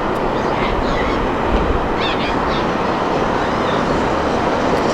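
Jet airliner passing low on final approach, its engines making a steady, loud rushing noise.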